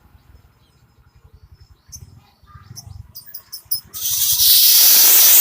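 Young weaver bird (fledgling manyar) giving a few short high chirps, followed about four seconds in by a loud rushing hiss lasting about a second and a half that cuts off suddenly.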